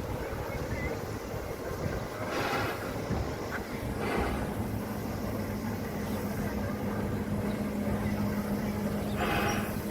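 Train on a railway turntable, turning slowly: a steady low rumble, with a steady hum coming in about halfway and a few short hisses.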